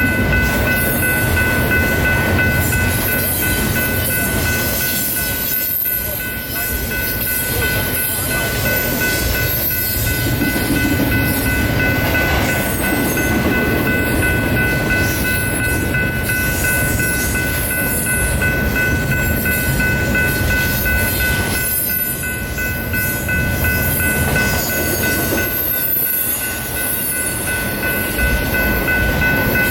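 A train rolling past at close range, its wheels rumbling loudly on the rails, with a steady high-pitched whine held throughout.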